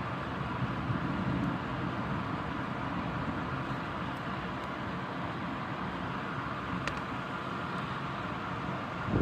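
Steady rain and storm noise with a low rumble of thunder about a second in; a loud low thunder crash begins right at the end.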